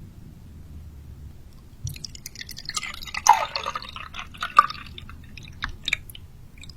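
Wet, crackling eating sounds close to the microphone as seafood is eaten, starting about two seconds in, with a few sharp snaps among the clicking.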